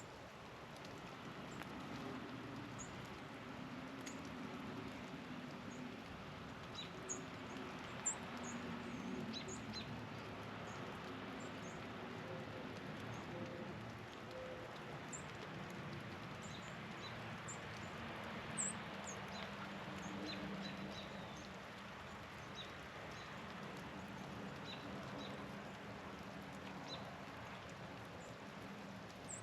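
Small songbirds giving scattered short, high chip notes, some overlapping, over a steady hiss and a faint low hum.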